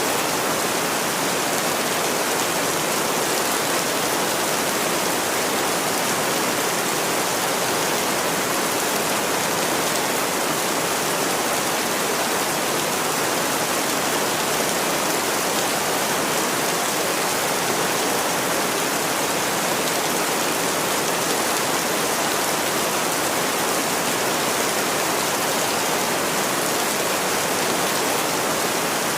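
Steady, even rain with no separate drops standing out.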